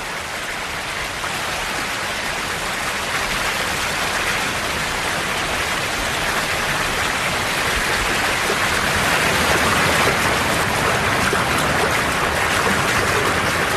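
Rushing river water: a steady, dense rush that slowly grows louder.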